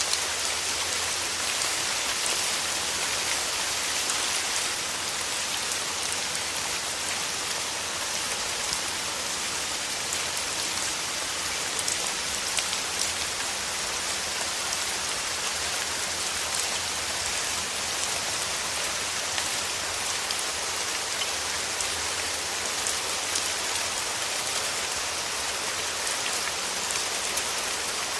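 Steady rain: a dense, even hiss of falling drops, with many small individual drop ticks and no change in intensity.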